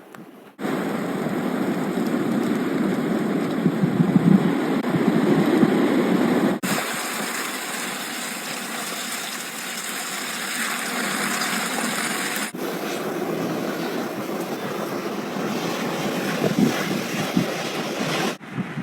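Strong wind gusting in a snowstorm and buffeting the microphone, heard as a steady rushing noise in three clips that change abruptly.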